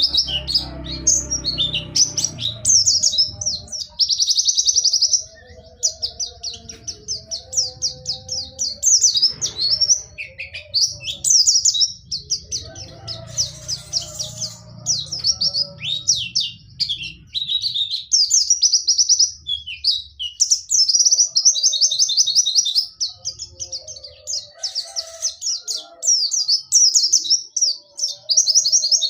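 A pleci dakun white-eye singing a long, nearly unbroken run of rapid, high trills and sharp chirps. This is the continuous rolling 'ngerol' song, broken by loud, piercing 'nembak' bursts.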